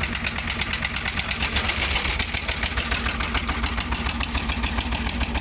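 An engine running steadily at a low speed, with a fast, even chugging beat.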